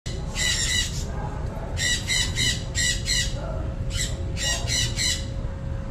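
A parrot squawking in a string of short, harsh screeches that come in groups of two or three.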